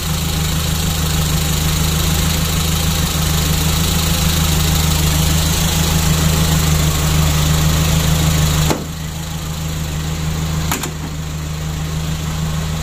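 Suzuki Carry Futura 1.5's freshly rebuilt carburetted four-cylinder engine running steadily at idle while it warms up. About nine seconds in it suddenly sounds quieter, with a sharp click then and another about two seconds later.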